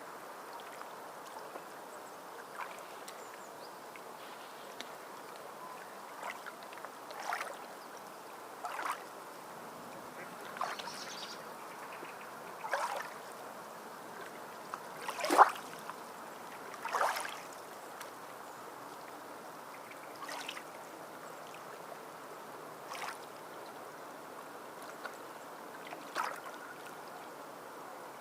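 Sea water lapping and splashing: a steady wash with small, irregular splashes every second or two, the largest about fifteen seconds in.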